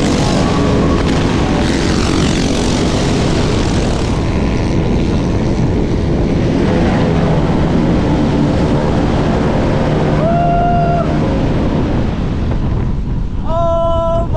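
Wind rushing over the microphone of a rider at high speed on an electric scooter, with the hum of motors underneath. A short pitched tone sounds about ten seconds in, and another starts near the end and drops in pitch.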